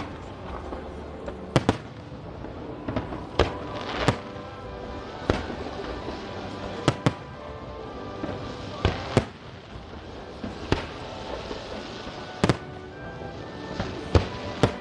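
Aerial fireworks bursting: about a dozen sharp bangs at irregular intervals, some close together in pairs, over steady background music.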